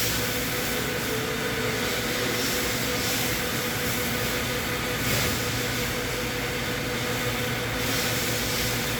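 A machine running steadily: an even whir and hiss with a faint constant hum underneath.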